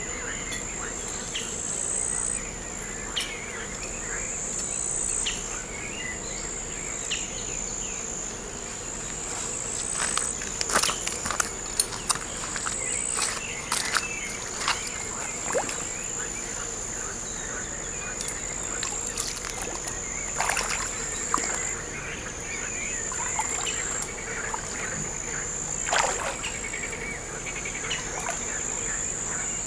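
Insects shrilling in a steady, high buzz whose pitch steps slightly up and down every couple of seconds. Scattered short chirps and clicks sound over it, with a cluster of sharp clicks about eleven seconds in.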